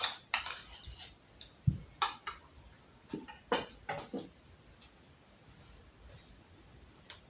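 Wood fire in a fireplace crackling: irregular sharp snaps, closely spaced for the first four seconds, then fewer and farther apart.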